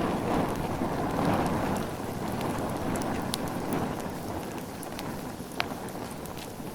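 Bonfire burning: a steady rushing of flames with scattered small crackles, and one sharp pop about five and a half seconds in.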